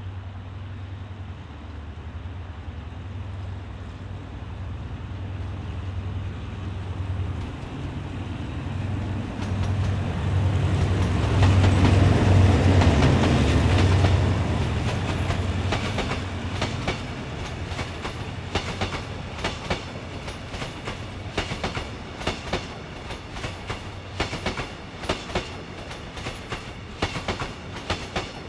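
Hitachi 8FA-36C diesel-electric locomotive passing: its low engine hum builds and is loudest about twelve seconds in. Then come the rhythmic clickety-clack of the coach wheels over rail joints as the express train rolls by.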